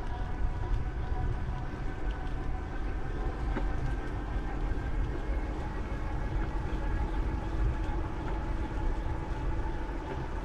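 Wind buffeting the microphone of a GoPro action camera during a bicycle ride: a steady low rumble that flickers unevenly, with faint steady whining tones above it.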